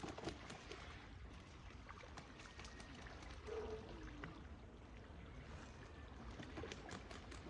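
Small waves lapping and trickling at a lakeshore, faint, with a low wind rumble and scattered small clicks. A short call that falls in pitch comes about three and a half seconds in.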